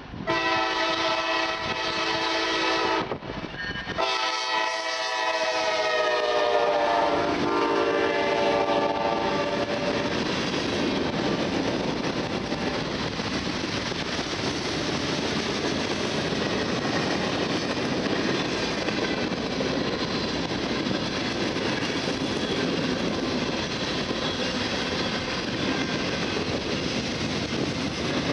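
Norfolk Southern freight train passing: the locomotive's air horn sounds twice, the second blast dropping in pitch as the locomotives go by, then the steady noise of the freight cars rolling past on the rails.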